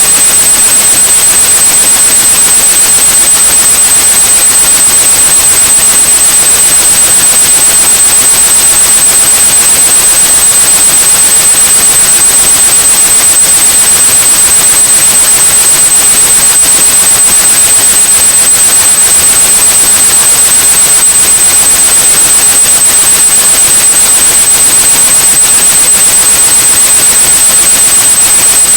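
Steady white noise with a continuous high-pitched pure tone at about 8100 Hz laid over it, a tinnitus-masking sound.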